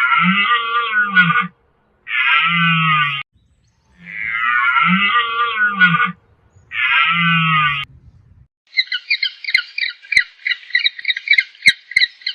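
Animal calls: four long, wavering calls in two matching pairs, then a fast chattering of many short high notes.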